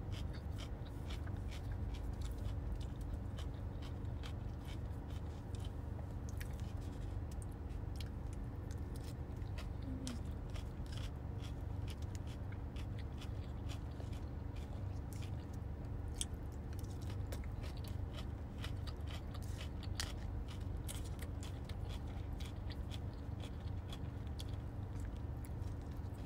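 Close-miked chewing and crunching of coleslaw, with many small sharp clicks of a fork against the cup, over a steady low hum.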